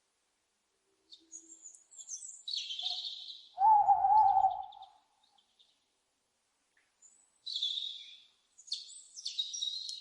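Owls calling: several short, harsh, hissing screeches, high in pitch, separated by pauses. About four seconds in comes one louder, lower, wavering call lasting about a second.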